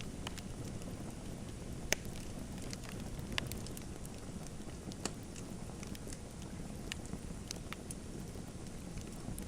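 Wood fire in a fireplace crackling: a steady low rushing with scattered sharp pops, the loudest about two seconds in.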